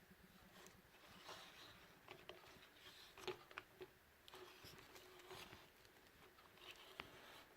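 Near silence: a few faint clicks and soft rustles, the sharpest a little over three seconds in and again near the end.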